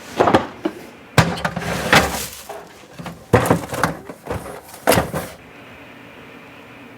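Refrigerator door and its contents being handled while searching for food: a run of knocks, thuds and clatters, with about five sharp impacts, stopping a little after five seconds in.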